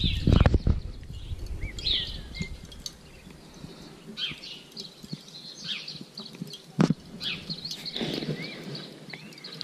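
Small birds chirping and calling repeatedly in the background. A low rumble sounds in the first second, and a single sharp knock comes about seven seconds in.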